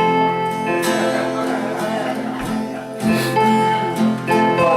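Keyboard and guitar playing held chords with a few strums, a couple of bars laid down to give the key before the song starts.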